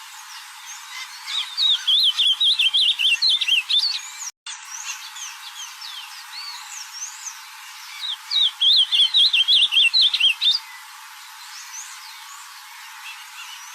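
Ultramarine grosbeak (azulão) singing two loud, fast warbling phrases of about two and a half seconds each, one a second or so in and one past the middle, over fainter chirps of other birds.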